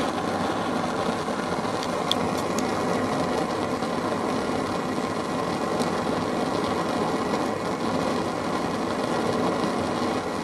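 Homemade methylated-spirit Supa Burner running flat out: a steady, blowtorch-like jet hiss as spirit vapour from its heated reservoir burns as a jet of flame.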